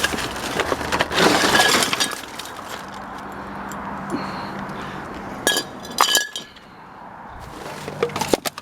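Junk being rummaged through in a dumpster: rustling and clattering about a second in, then sharp glassy clinks that ring briefly, twice, and a few more knocks near the end, over a faint steady low hum.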